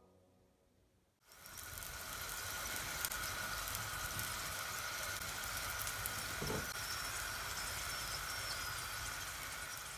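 Steady sizzling like food frying in hot oil, starting after about a second of silence, with scattered small pops and crackles.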